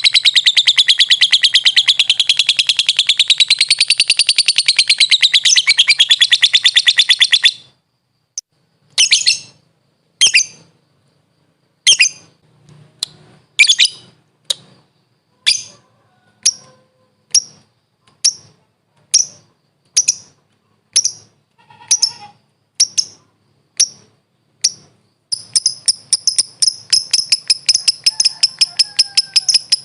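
Lovebird (Agapornis) song: a long, fast, high-pitched chattering trill, the kind bird keepers call 'ngekek'. It stops about seven seconds in, gives way to single sharp shrill calls about one a second, and the fast chatter returns near the end.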